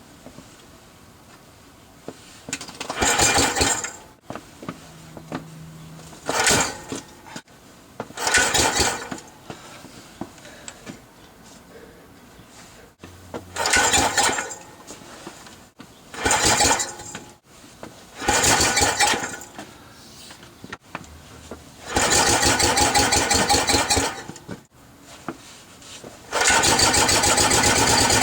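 1945 Gravely Model L's single-cylinder engine being strap-started by pulling a rope. It fires in six short bursts of about a second each and dies each time, then runs for about two seconds. Near the end it catches and keeps running.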